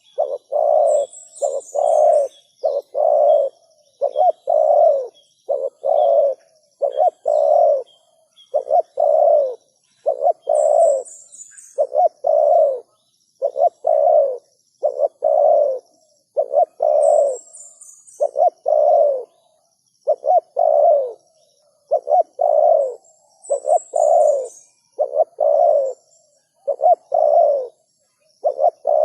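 Spotted dove cooing over and over in rhythmic phrases of low, hollow notes. A short, high twitter recurs about every six or seven seconds.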